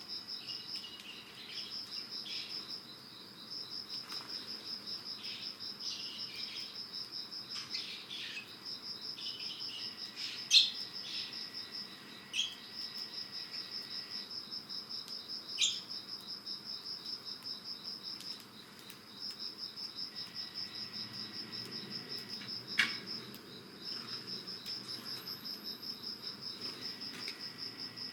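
An insect trilling steadily in rapid pulses at a high pitch, breaking off briefly a few times. Over it come a few short, sharp chirps from Eurasian tree sparrows, the loudest four of them spread through the middle and later part.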